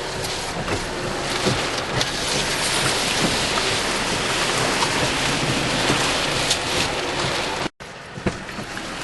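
Heavy rain and wind in the aftermath of a tornado, a steady loud wash of noise with scattered drops ticking. It cuts out for an instant near the end.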